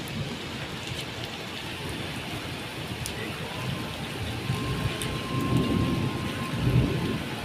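Heavy rain falling steadily, with a low rumble swelling about two-thirds of the way through.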